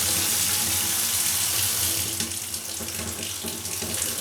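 Kitchen tap running lukewarm water into the sink while a dishcloth is rinsed under it. The stream is loud and steady for about two seconds, then turns softer and uneven as the cloth breaks the flow.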